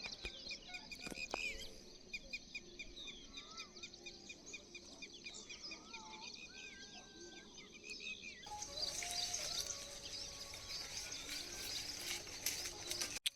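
Several birds chirping and whistling: quick repeated chirps and short whistled glides over a faint outdoor background, with the background hiss growing louder about two-thirds of the way through.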